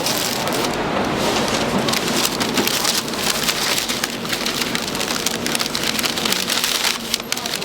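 Hot oil sizzling and crackling steadily in a deep fryer as doughnuts fry.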